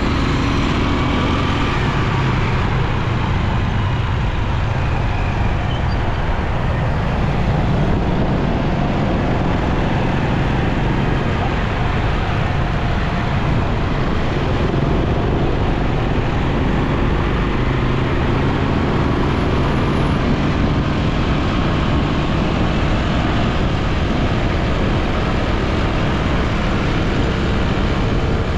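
Motorcycle riding through city traffic: a steady rush of wind and road noise over the low, even drone of the bike's engine, with surrounding traffic mixed in.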